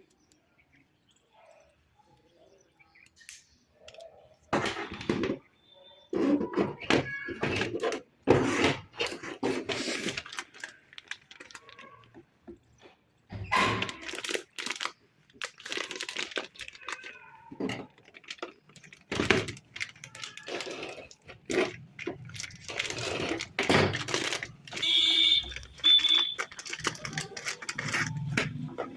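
Tools and plastic packaging being handled and unpacked: clusters of clicks, knocks and rustling, with a brief high squeak near the end.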